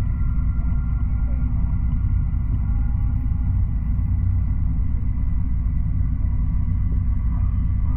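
N700 Series Shinkansen running on the line, heard from inside the carriage: a steady low rumble of the train in motion, with a faint steady high tone over it.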